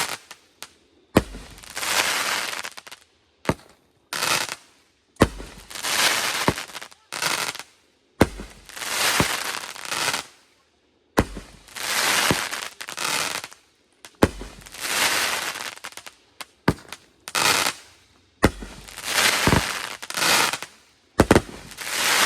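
Consumer fireworks going off one after another, about eight in all, every two to three seconds. Each is a sharp bang followed by a crackling hiss that lasts a second or two.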